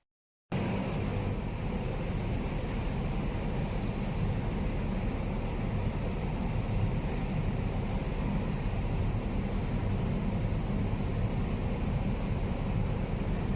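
A ferry's engine running steadily, a low even drone that starts abruptly about half a second in.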